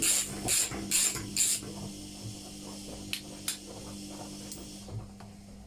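Ratchet wrench backing out the Torx T40 pulley bolt of a washing machine drum, a bolt set in thread sealant. It gives short rasping ratchet strokes about twice a second that stop after about a second and a half, followed by a few light metallic clicks over a low steady hum.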